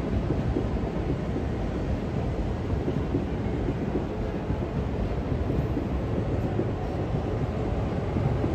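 Electric train running past at a station platform: a steady low rumble that holds at an even level with no sharp clanks or horn.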